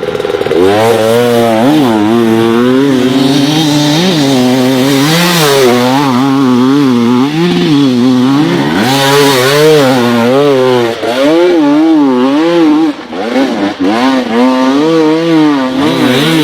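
Enduro dirt bike engine revving hard, its pitch rising and falling every half second or so as the throttle is worked on and off. The engine briefly drops away about three-quarters of the way through, then picks up again.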